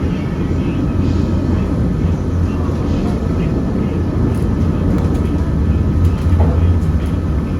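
Peak Tram funicular car running up its track, a steady low rumble heard from inside the car.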